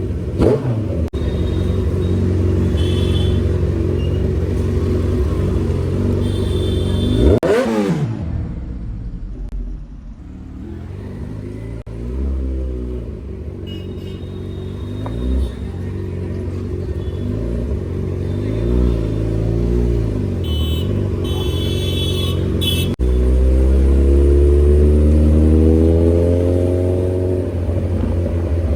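Motorcycle with an aftermarket Austin Racing exhaust, revved hard: sharp throttle blips about half a second in and again at about seven seconds, smaller blips through the middle, then louder running that climbs in pitch near the end.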